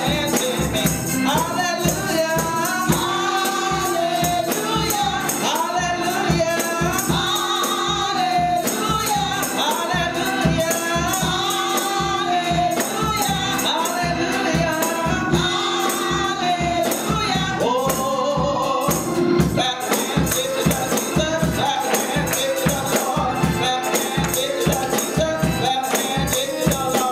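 Gospel music: a choir singing over a steady beat with tambourine.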